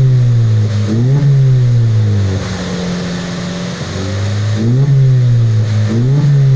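Honda Brio's four-cylinder engine revved in quick blips through an aftermarket muffler on a bolt-on pipe, with the centre resonator and stock rear muffler removed. The pitch jumps up and falls back about three times, settling toward idle in between.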